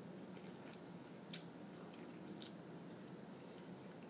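Faint chewing and wet mouth sounds while eating a boiled potato, with two short sharp clicks, about a second and a half in and again near two and a half seconds, over a low steady hum.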